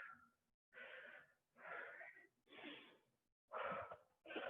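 Faint, heavy breathing of a person exercising hard, about one breath a second.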